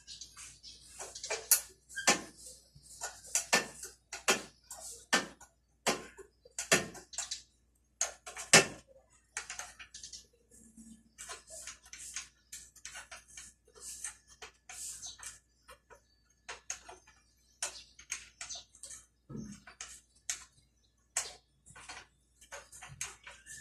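Irregular light metal clicks and clinks from hands working on a motorcycle chain and tools, several a second at times with short pauses.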